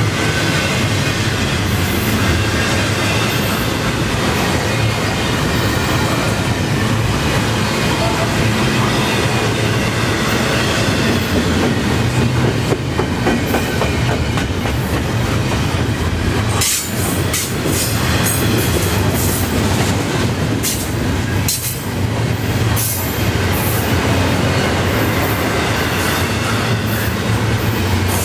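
Double-stack intermodal well cars rolling past at about 28 mph: steady wheel-on-rail rumble with clickety-clack over the rail joints. Short high squeals and clanks crowd in through the second half.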